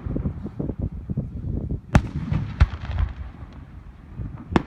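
Fireworks exploding: a dense run of low booms and crackle for the first two seconds, then sharp bangs about two seconds in, a moment later, and again near the end.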